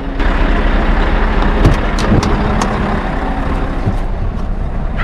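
Scania R580 truck's V8 diesel running, with a steady noisy rumble and a scattering of sharp clicks and knocks.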